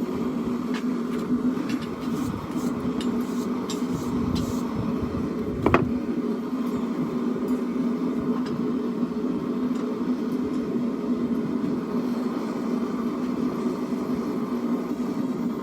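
A steady mechanical drone running throughout, with a single sharp knock just under six seconds in and a few faint clicks before it.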